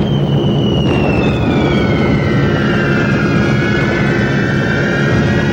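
Falling bombs whistling: long whistles slide slowly down in pitch, a fresh cluster of overlapping whistles starting about a second in. Under them runs the steady drone of a B-17 heavy bomber's piston engines.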